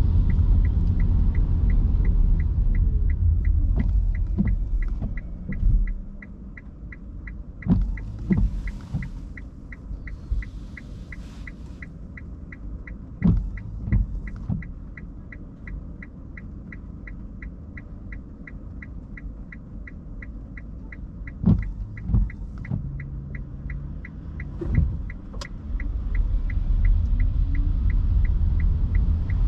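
Inside an electric car: the low tyre and road rumble fades as the car comes to a stop about five seconds in, leaving a steady ticking of the turn-signal indicator, about three ticks a second, with a few dull thuds. Near the end the road rumble returns as the car pulls away.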